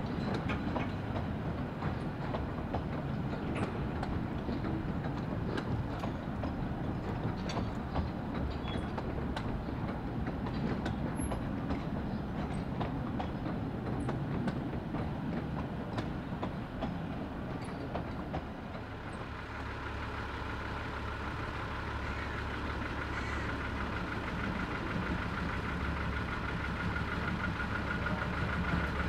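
15-inch-gauge passenger coaches rolling slowly along the track, rumbling, with scattered clicks from the wheels. About two-thirds of the way through this changes to a diesel locomotive idling steadily, a low hum with a thin high tone above it.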